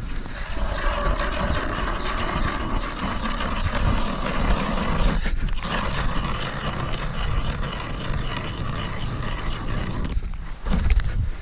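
Ice auger drilling a hole through river ice, a steady grinding drone with a brief break about halfway, stopping about ten seconds in.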